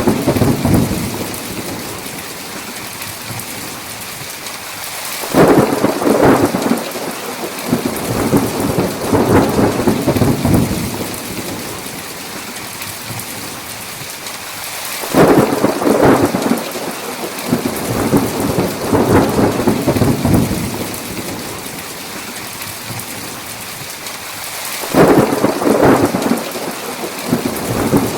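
Steady heavy rain with thunder. A rumble breaks in suddenly about every ten seconds, three times in all, and each rolls on for several seconds before fading back into the rain.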